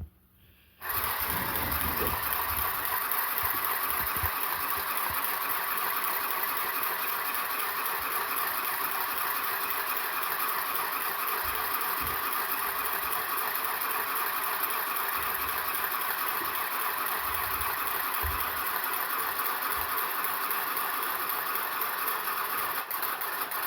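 USB-powered handheld electric sewing machine running at a steady speed, stitching through curtain fabric with a continuous fast rattling clatter; it starts about a second in.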